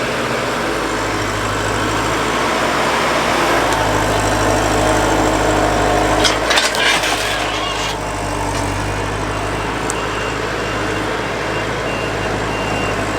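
Heavy diesel engine running steadily, rising a little in the middle, with a short clatter about six to seven seconds in and faint repeating beeps near the end.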